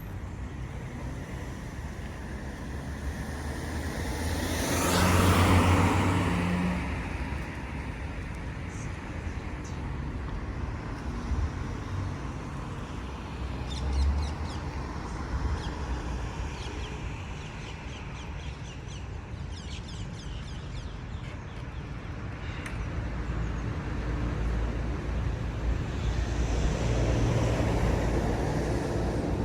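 City street traffic with a steady rumble. A vehicle passes close by about five seconds in, there is a brief bump about fourteen seconds in, and another vehicle approaches near the end.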